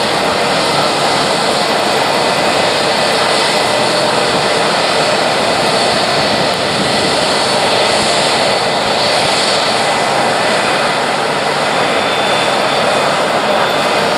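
Jet airliner's engines running loud and steady, an even rushing noise with a faint high whine running through it.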